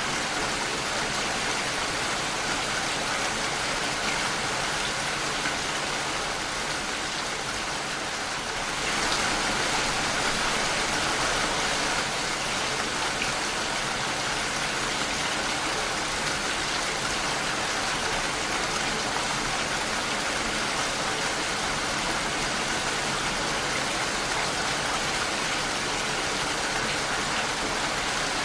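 Steady rain falling against a window pane, an even hiss that grows a little louder about nine seconds in.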